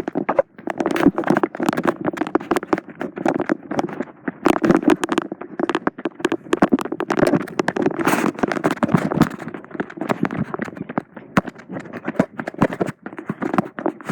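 A person running, with his footsteps and the recording phone jostling and rubbing in his hand: a dense, uneven run of knocks and crackles.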